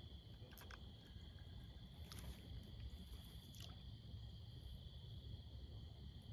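Faint outdoor ambience with a low rumble and a steady high-pitched hum, broken by three short clicks about half a second, two seconds and three and a half seconds in.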